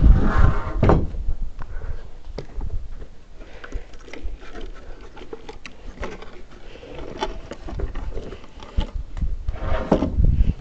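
Knocks and clatter of wood being handled during hand-tool carpentry: scattered sharp taps and clunks, with heavier, deeper handling noise at the start and again near the end.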